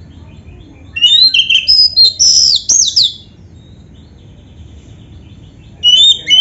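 Oriental magpie-robin (kacer) singing loud, rapid whistled phrases of sliding notes, with canary-like fill-in phrases. One burst of song comes about a second in and lasts about two seconds, and another starts near the end.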